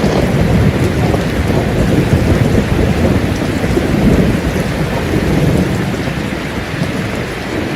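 Heavy steady rain with low rolling thunder rumbling underneath, swelling and easing a few times.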